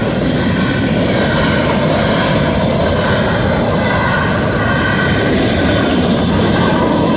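Freight train cars rolling past on the mainline, a loud steady rumble of wheels on rail with a faint high squeal drifting in and out.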